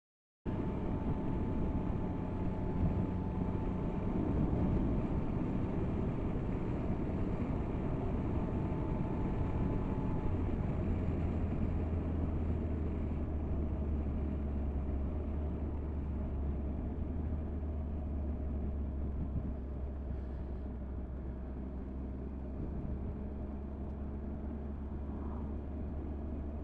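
Motorcycle engine running steadily with a constant low hum, cutting in suddenly about half a second in.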